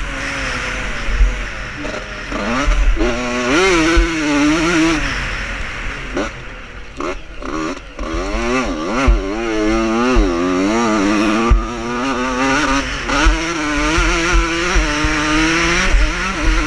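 Vintage motocross motorcycles racing, their engines revving up and down again and again as they ride the track, with more than one bike heard at once near the middle.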